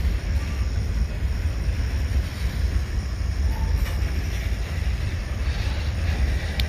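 Freight train rolling past, a steady low rumble of its cars on the rails.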